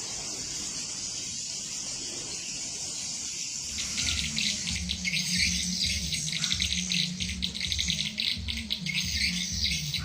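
Swiftlet calls: a steady hiss, then from about four seconds in a fast, dense twittering of chirps and clicks, with a low pulsing hum beneath.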